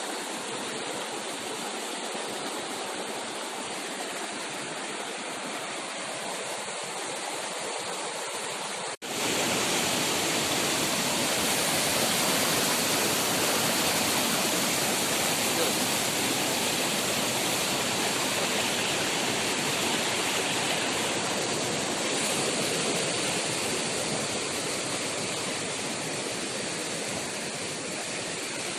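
Steady rush of flowing water. About nine seconds in it cuts out for an instant, then comes back louder and fuller.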